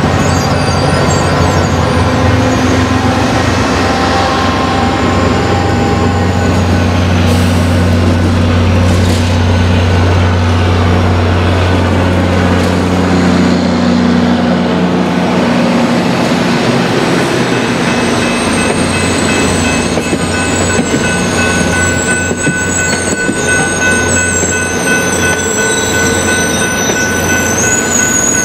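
A diesel-hauled commuter train passing close by: an MBTA HSP46 locomotive's engine drones low and steady for the first half, then fades as the coaches roll past. In the second half, high thin wheel squeal rises over the rumble of the cars.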